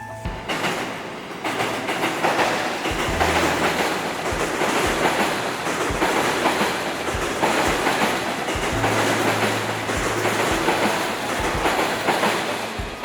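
A train passing close by: a loud, steady rush of wheels on rail that builds over the first two seconds, with repeated clacks as the wheels cross the rail joints and a low hum under it at times.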